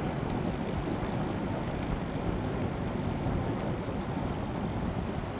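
Steady rumbling noise of an e-bike ride: tyres rolling on the pavement and wind across the microphone.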